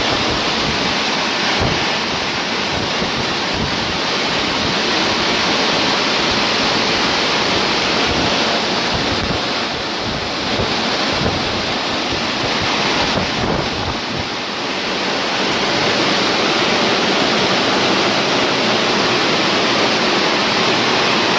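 Wind buffeting the microphone: a loud, steady rushing noise with irregular low thumps.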